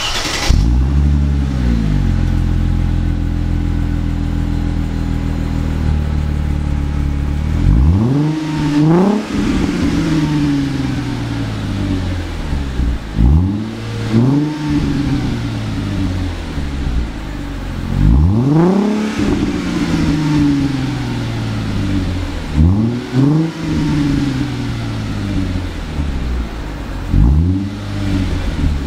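Mercedes C32 AMG's supercharged V6 with a Magnaflow glasspack exhaust and deleted secondary cats, warm-starting with a brief flare and settling into a steady idle. It is then free-revved in about six quick blips, each rising sharply and falling back to idle.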